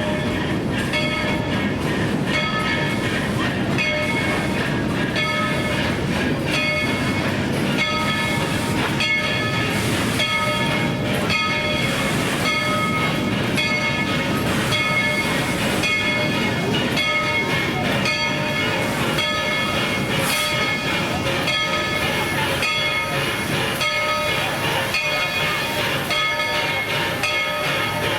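Tweetsie Railroad's steam locomotive No. 190 running with its train, a steady rumble, while its bell rings over and over at an even pace.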